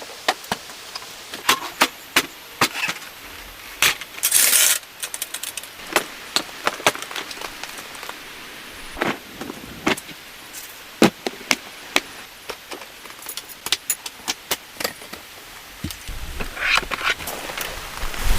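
Irregular sharp clicks and light knocks of camping gear being handled, with two short rustling bursts, one about four seconds in and one near the end.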